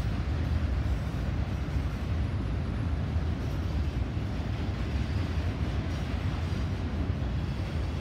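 Norfolk Southern freight train of autorack cars rolling past, a steady low rolling noise of wheels on rail.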